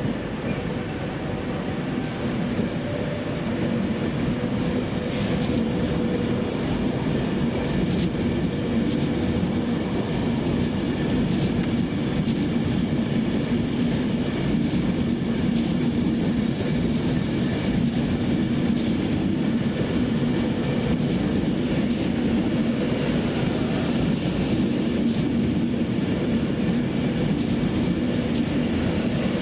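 Steady rumbling of a moving vehicle, with faint steady tones and scattered light clicks; it grows a little louder over the first few seconds and then holds even.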